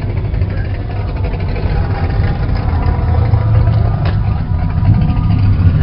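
A car engine idling with a steady low rumble, and a single sharp click about four seconds in.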